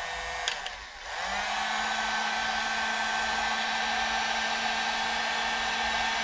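Heat gun blowing hot air, a steady blowing hiss with a whining motor tone; it dips briefly about a second in, then comes back up and runs steadily.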